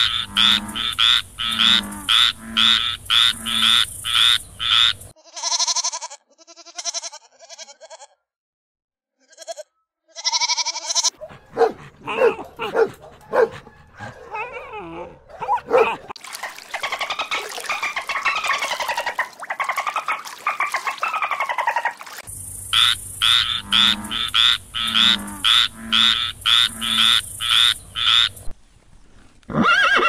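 A frog croaking in a fast, even series of pulses, about three a second. It is followed by a dog's calls, short high yelps and then long wavering whines. The frog's pulsed croaking returns, and a horse's whinny starts at the very end.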